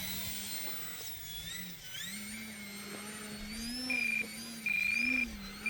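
Electric motor of an E-Flite Eratix 3D flat-foam RC plane whining in flight, its pitch wavering up and down with the throttle. About four seconds in, a high electronic beep starts repeating about once a second: a low-battery warning as the flight pack runs down.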